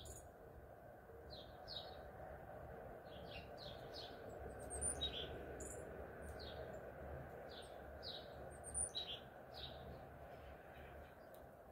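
Small birds chirping: a run of short chirps, several a second at the busiest moments, with a few thin, higher squeaks, over a steady low background noise.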